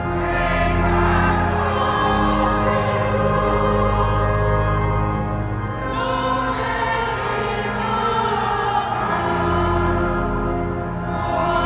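Choir singing a sacred piece in sustained, slowly changing chords, with deep held low notes underneath.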